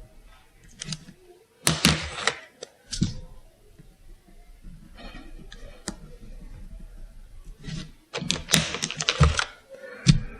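Craft supplies being handled on a desk: two bursts of clattering clicks and knocks, with lighter scattered taps between.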